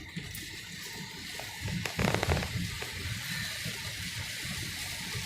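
Heavy rain pouring on and around a moving car with the window open, under a low rolling rumble of thunder that swells loudest about two seconds in.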